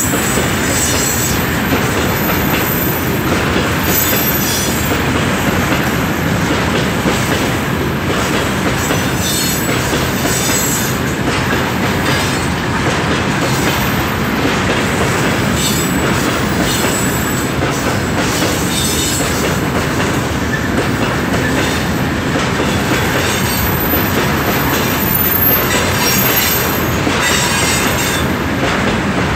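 Freight train of tank cars rolling past close by: a steady loud rumble of steel wheels on rail, with repeated clicks as the wheels cross rail joints and a high-pitched wheel squeal that comes and goes.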